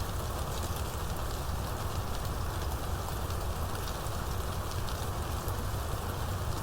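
Steady rainstorm: rain falling, with the fine patter of many drops and a low steady rumble underneath.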